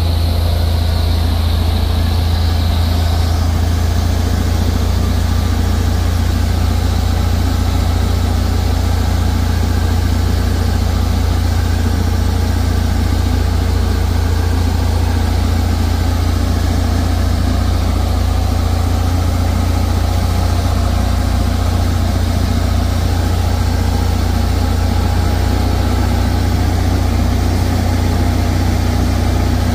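Cessna 172's piston engine and propeller droning steadily, heard inside the cockpit.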